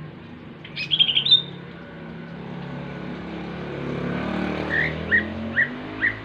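Cucak ijo (green leafbird) singing: a quick run of high notes about a second in, then five short chirps about half a second apart near the end. Under it, the hum of a passing motor vehicle rises and swells.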